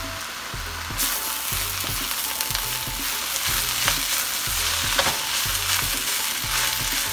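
Rice frying in a hot wok, sizzling steadily as it is stirred with a spatula. The sizzle grows louder about a second in, with a couple of sharp clicks near the middle.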